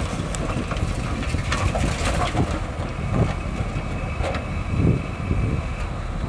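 Heavy diesel earthmoving machinery running: a steady low engine rumble with scattered metallic clanks. A thin, steady high whine joins it for a few seconds in the second half.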